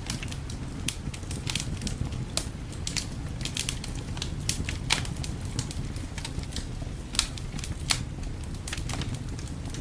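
Wood fire crackling, with irregular sharp pops, several a second, over a steady low rumble. The loudest pops come about five seconds in and twice near the eight-second mark.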